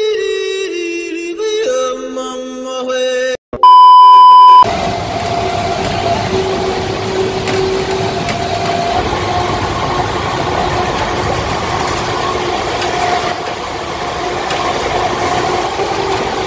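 Background music for the first few seconds, cut off by a loud steady electronic beep lasting about a second. Then the steady running noise of a passenger train heard from inside the coach, a rumbling rush with a faint steady hum.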